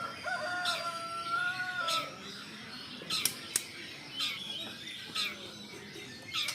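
A long, level call lasting about a second and a half comes first. After it, a white-rumped shama gives sharp clicks and short chirps, as it does when agitated at a rival.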